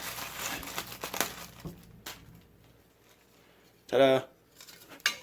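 Plastic bag crinkling and rustling as a small replacement part is pulled out of it, dying away about two seconds in.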